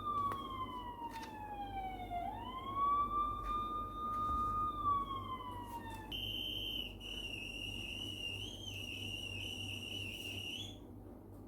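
Police siren wailing, its pitch sliding down, sweeping back up and falling again. About six seconds in it changes to a higher, steady tone, held for about five seconds before it cuts off.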